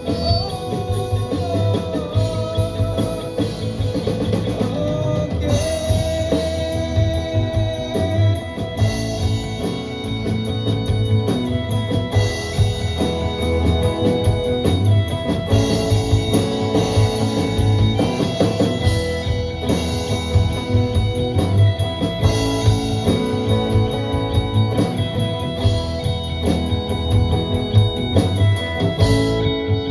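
Live rock band playing an instrumental passage: guitars over bass guitar and a drum kit.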